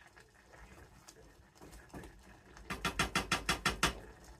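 Spoon stirring oatmeal in a pot, with a quick run of about nine strokes against the pot about three seconds in.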